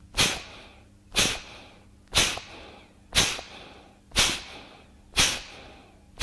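Kapalabhati breathing: a series of quick, forceful exhales pushed out through the nose by snapping the belly in, about one a second, each a short sharp puff of breath that fades quickly.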